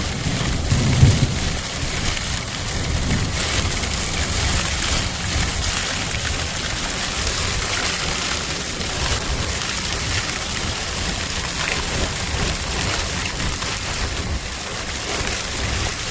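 Heavy rain falling, a steady hiss of downpour on the ground, with a low rumble about a second in.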